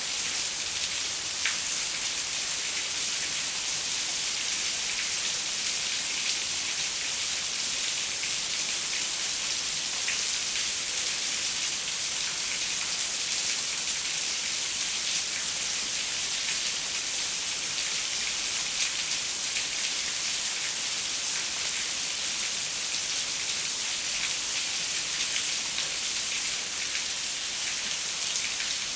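Steady rain falling on a window, an even high hiss with many small drop taps.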